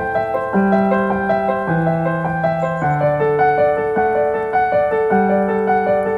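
Background piano music: gentle, steady notes with a bass line that changes about once a second.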